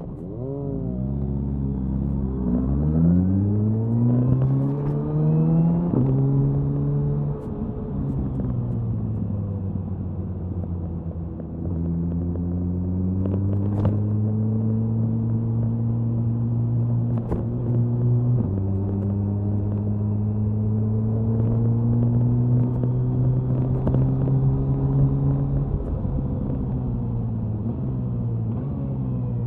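Suzuki Hayabusa inline-four motorcycle's exhaust, accelerating hard through the gears: the pitch climbs and drops back several times in the first seven seconds or so. It then holds a steady high-speed cruise with a slow climb, eases off near the end, with wind noise and a few sharp cracks in the middle.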